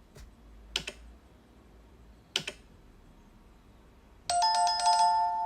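Two faint clicks, then an electronic chime of two steady tones sounding together, starting suddenly about four seconds in and fading away.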